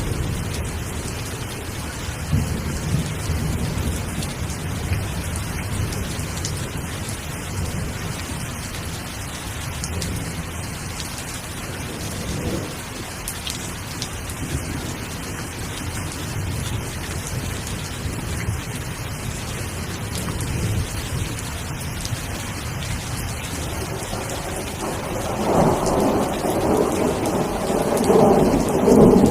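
Steady, even rain hiss with a low rumble running underneath. The rumble swells louder and fuller about 25 seconds in.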